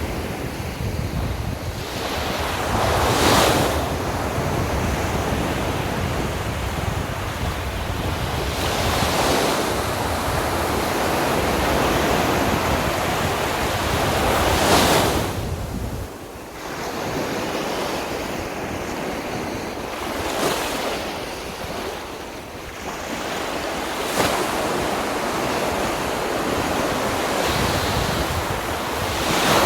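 Sea waves breaking on a beach, a crash every five or six seconds with a steady wash between, and wind buffeting the microphone that eases about halfway through.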